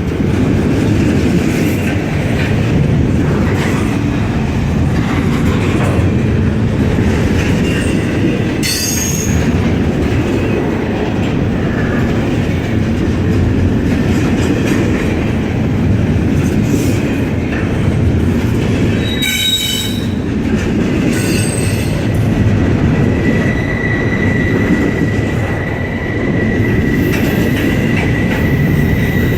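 Train passing close by: a continuous loud rumble and clatter of steel wheels on the rails. Short high wheel squeals come about 9 and 19 seconds in, and a steady high-pitched wheel squeal starts about 22 seconds in and holds on.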